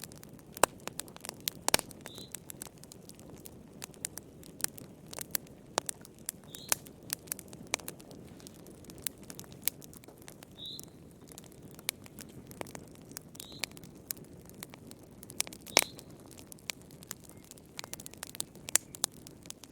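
Wood fire crackling: irregular sharp pops and snaps over a low, steady hiss of the flames, with a few louder pops, one near the start and one about three-quarters of the way through.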